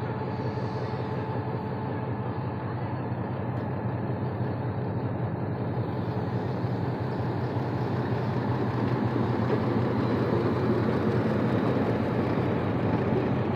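Diesel locomotive engine running with a steady low hum as the passenger train rolls slowly along the platform; the rumble of the moving coaches grows louder in the second half.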